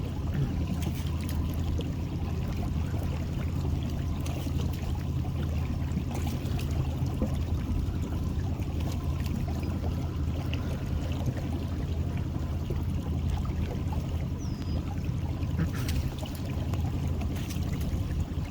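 Boat motor running steadily at low speed under a constant wash of water noise.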